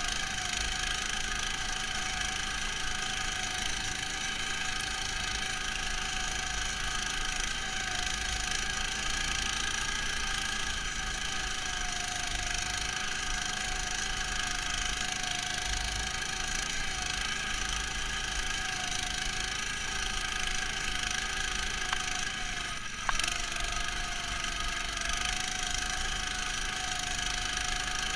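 Neva walk-behind tractor's single-cylinder petrol engine running steadily under load, heard muffled through a camera housing. Late on there is a short knock and the engine note dips briefly before settling again.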